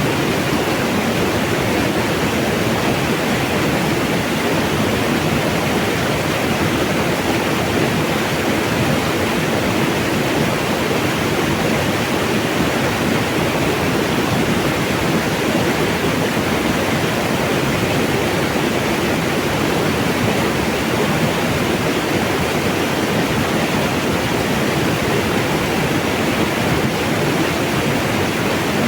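Flowing mountain water rushing steadily and evenly, with no change throughout.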